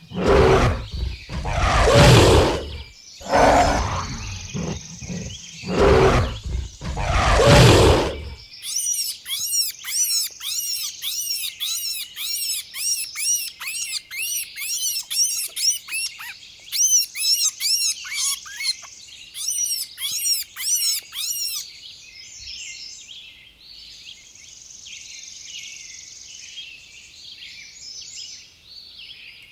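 A large wild animal giving about five loud, rough roars in a row, a second or two apart. These are followed by a bird's quick, high chirps repeated several times a second, which stop about two-thirds of the way in, leaving a faint outdoor hum of birds and insects.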